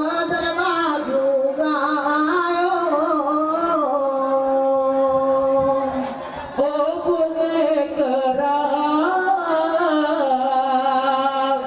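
Saman dance chant sung in a high male voice: a long, ornamented melody held on sustained notes, with a short break and a fresh phrase about six and a half seconds in.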